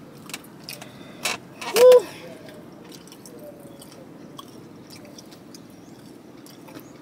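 Chewing a bite of crispy fried chicken wing, with small scattered crunches. About two seconds in comes a short, high, pitched 'mm' of enjoyment, the loudest sound. A low steady hum runs underneath.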